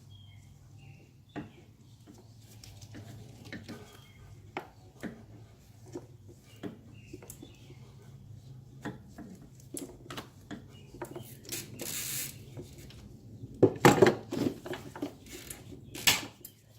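Small hard parts and tools being handled: scattered clicks, taps and rubbing, with a louder clatter of knocks about two-thirds of the way through and another just before the end.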